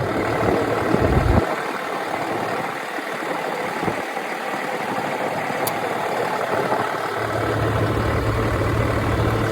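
Cummins ISB 6.7-litre inline-six diesel in a Ford F-750 idling steadily. Its low hum drops away about a second and a half in and comes back about seven seconds in.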